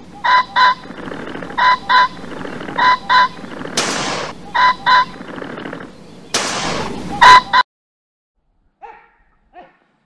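Bird calls in repeated two-note pairs, five pairs in all, with two rushing swells of noise between them. It all cuts off sharply about seven and a half seconds in.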